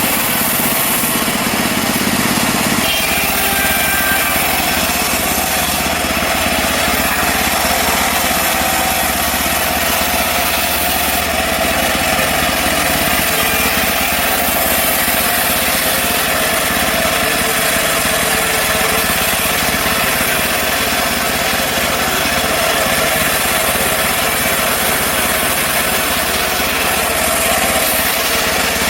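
Engine-driven portable bandsaw mill running, its blade sawing through a mahogany log. The engine note shifts about three seconds in, then holds steady.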